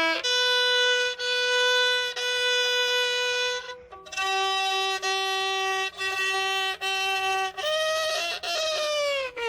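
Violin played by a young learner: long bowed notes, one stroke about every second, stepping between a few pitches, wavering after about eight seconds and sliding steeply downward near the end.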